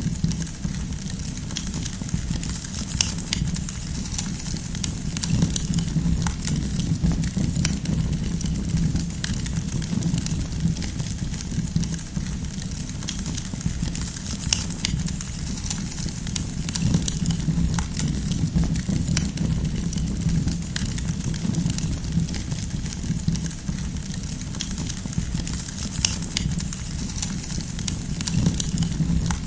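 Campfire of burning firewood: a steady low rumble of flames with many scattered sharp crackles and pops throughout.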